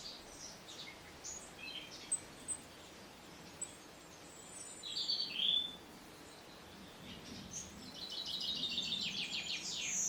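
Songbirds singing: scattered short high chirps, a brief two-note phrase about halfway, then a long rapid trill of evenly repeated notes in the last three seconds.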